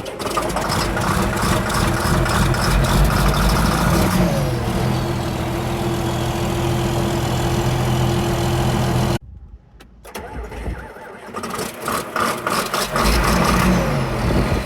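John Deere 4955 tractor's six-cylinder diesel engine cold-starting: it catches and runs fast and rough, then about four seconds in the revs drop and it settles into a steady idle. Past the middle the sound cuts off suddenly, and a second cold start follows, catching rough and dropping back toward idle near the end.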